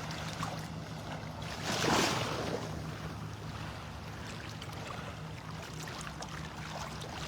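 Small waves washing at the water's edge, one surging louder about two seconds in, over a steady low engine hum.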